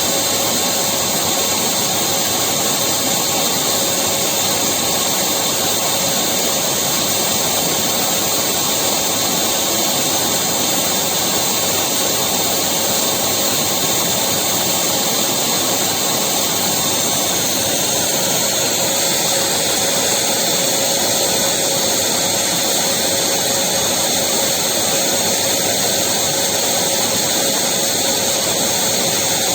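Electric vacuum cleaner running continuously: a steady rushing of air with a fixed high whine from the motor, its tone shifting slightly about two-thirds of the way through.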